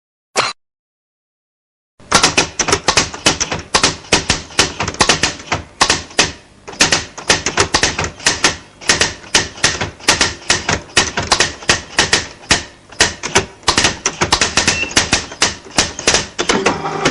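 Typewriter sound effect: fast, uneven typing keystrokes, about five a second, starting about two seconds in after a short pause.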